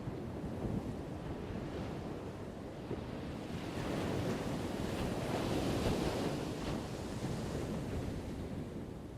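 Ocean surf washing ashore, one wave swelling about four seconds in and easing off near the end, with wind rumbling on the microphone.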